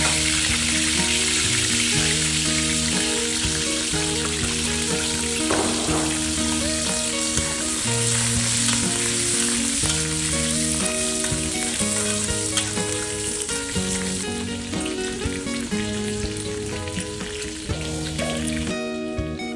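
Food frying in a hot pan, a steady sizzle that dies away near the end, with background music underneath.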